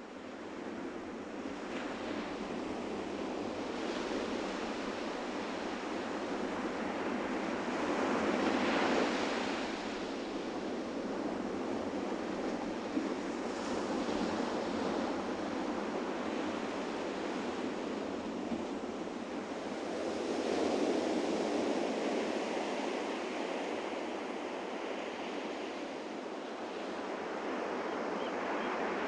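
Ocean surf breaking on a beach, a steady wash of waves that swells to louder breakers about a third of the way in and again about two-thirds of the way through.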